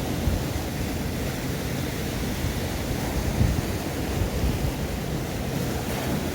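Steady surf washing on the shore, with wind rumbling on the microphone.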